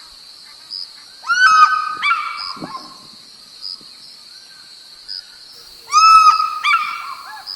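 Two bouts of loud bird calls, each a run of pitched notes lasting a second or two, over a steady high insect drone that pulses at regular intervals.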